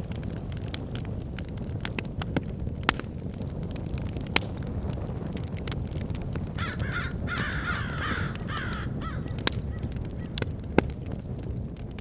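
Bonfire burning with a steady low rumble and scattered sharp crackles and pops. Partway through, crows caw several times in quick succession.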